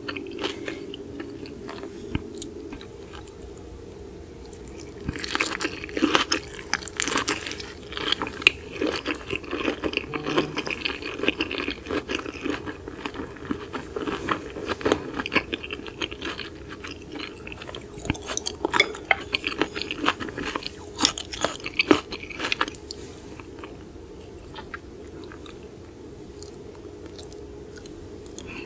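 Close-miked chewing of raw seafood: a run of wet, crunchy clicks and smacks, busiest in the middle and sparser near the start and end.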